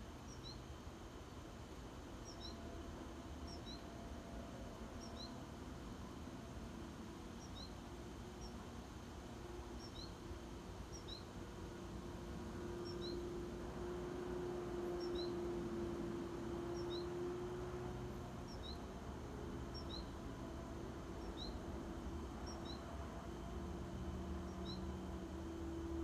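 A songbird calling a short, high two-note chirp over and over, about once every second or so. Under it a low steady drone, as from a distant engine, swells about halfway through and again near the end.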